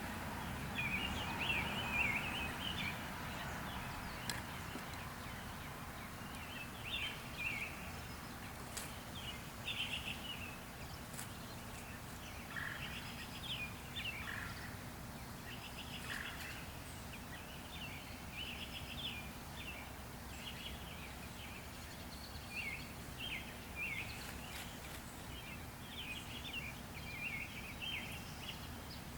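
Bird chirping in many short, rapid runs of high chirps over a low steady background hum.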